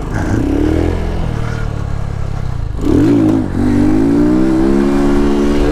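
Lifan KP motorcycle's single-cylinder engine accelerating away. Its pitch climbs, drops for a gear change about three seconds in, then climbs again and holds fairly steady.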